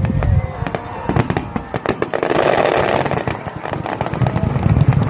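Fireworks going off in quick succession: many sharp cracks and crackles over low booms, with a hissing shower swelling about two and a half seconds in.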